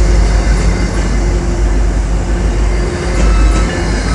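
MBTA Commuter Rail train arriving, its bilevel passenger coaches rolling past: a loud, steady sound of steel wheels running on the rails.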